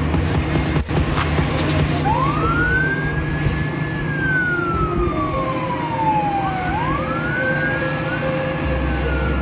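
Music with a beat cuts off about two seconds in, and a wailing siren takes over: a quick rise in pitch, a long slow fall, then another rise. A second siren overlaps near the end, over a steady low rumble.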